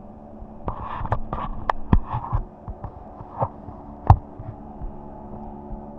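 Steady low hum with scattered sharp clicks and knocks; the loudest knock comes about four seconds in.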